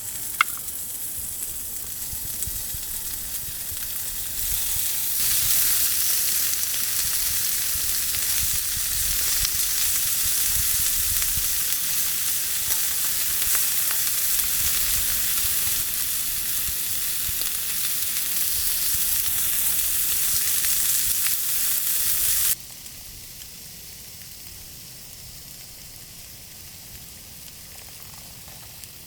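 Food sizzling hard in a hot pan: a steady, loud, crackling hiss that grows louder about five seconds in, then drops suddenly to a much quieter sizzle near the end.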